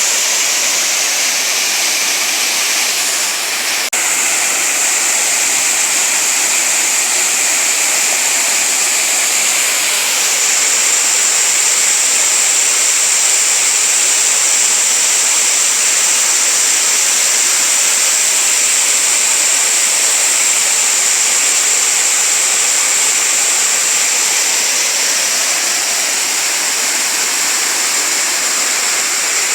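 Waterfall: water falling and rushing steadily, a dense, unbroken hiss.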